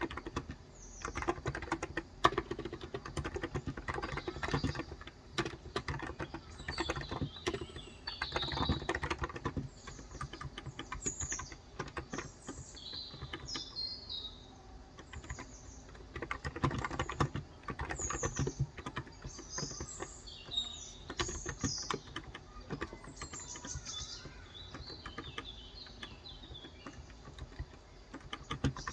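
Typing on a Cox Endeavour electro-capacitive (Topre-style) 35 g tenkeyless keyboard, in bursts of rapid keystrokes with pauses between. Birds chirp in the background, more often in the second half.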